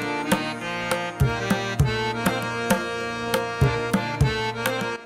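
Dholki hand drum and harmonium playing Konkan folk dance music: sharp drum strokes, some with a bending low note, over held harmonium chords. It stops abruptly at the end.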